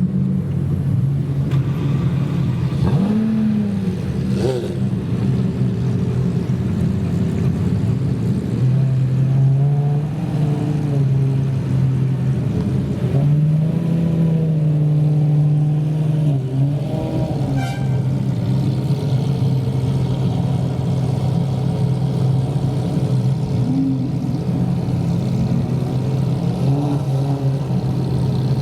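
Supercar engine running steadily at low revs, its pitch drifting up and down slightly now and then.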